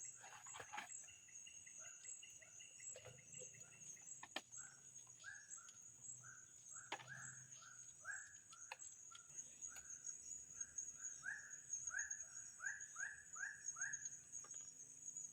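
Tropical forest ambience: a steady high-pitched insect drone, with a series of short rising animal calls repeating about twice a second that grow louder over the second half, and a few faint clicks.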